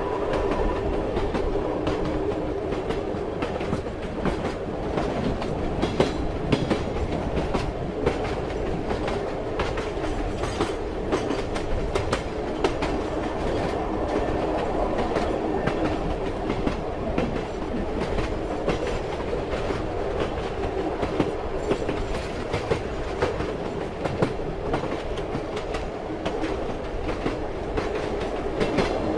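Train running along the track: a steady rumble and hum, with the clickety-clack of the wheels going over rail joints coming through now and then.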